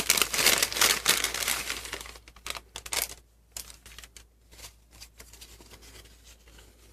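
Crinkly packaging being handled and opened, a dense crackle for about two seconds that then thins to a few light taps and rustles.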